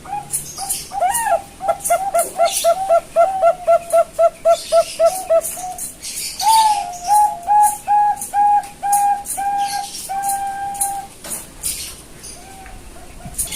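Young Bangkok-line zebra dove (perkutut) cooing: a fast run of short rolling notes, about three or four a second, then a slower series of longer, level notes that stops about eleven seconds in.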